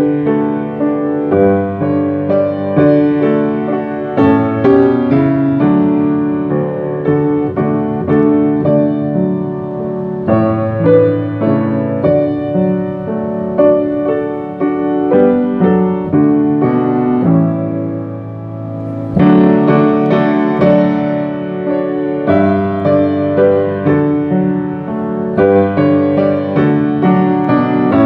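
Piano playing a worship-song accompaniment in chords, with no voices.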